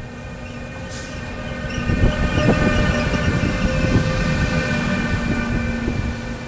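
Electric train passing on the line: a low rolling rumble that swells about two seconds in, with a steady whine of several tones above it.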